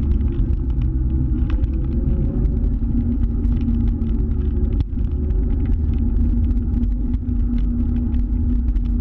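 A scooter riding along at a steady pace: a heavy, continuous low rumble with a steady hum, scattered small clicks and ticks, and a brief drop about five seconds in.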